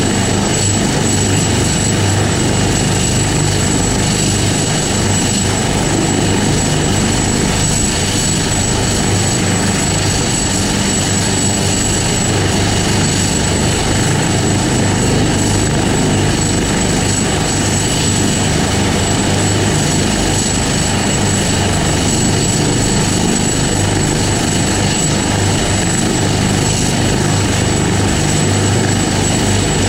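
Helicopter running steadily with a constant rotor noise and a steady high whine.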